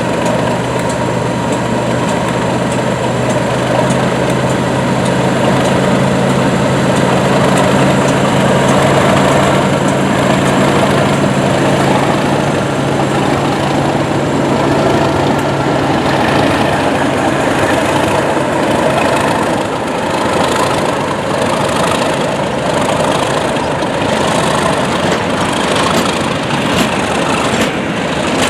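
Class 37 diesel locomotive's English Electric V12 engine running with a steady low drone, which fades about two-thirds of the way through. It gives way to a louder rushing noise with a regular clatter about once a second.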